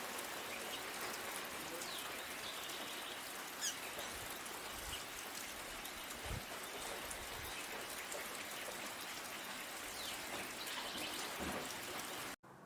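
Steady rain with birds chirping over it: several short gliding chirps and a couple of brief trills. It cuts off suddenly near the end.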